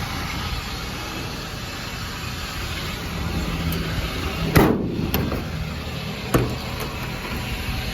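The truck's 6.7L Powerstroke V8 diesel idling with a steady low hum, with a loud bang just past halfway and a second, smaller bang about two seconds later, plus a few light clicks.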